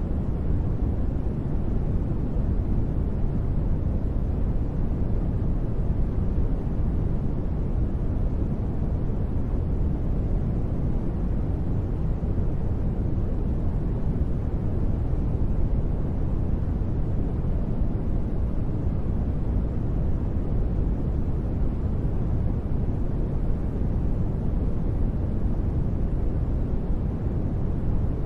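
Steady, unchanging low, rumbling noise of a sleep-sound track, its energy heavy in the bass and dull in the treble, more like brown noise than bright white noise.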